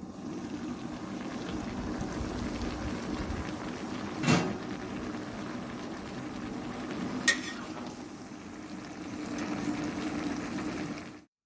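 Mixed vegetables cooking in a pan, a steady sizzle and simmer, with two sharp clinks of metal on the pan a few seconds apart. It cuts off suddenly near the end.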